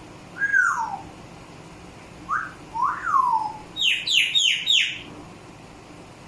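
Pet parrot whistling: a falling whistle, then a rising-and-falling whistle, then four quick falling chirps in a row.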